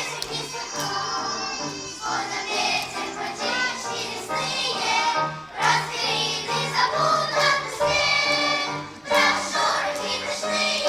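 Children's choir singing a song in unison with instrumental accompaniment, the voices held on long notes between phrases.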